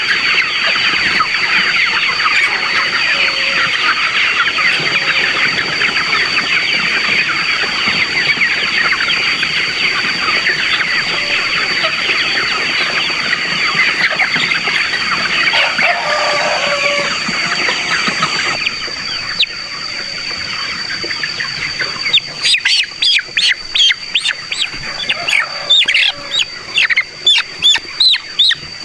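A large flock of chickens clucking and cheeping together in a dense, continuous chatter, over a steady high-pitched whine. About two-thirds of the way through the chatter thins out, and a run of sharp, regular clicks or knocks at about two a second takes over.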